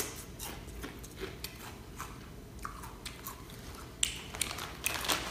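A person chewing a crunchy ridged potato chip (Rap Snacks New York Deli Cheddar), with short, irregular crunches and a few louder ones near the end.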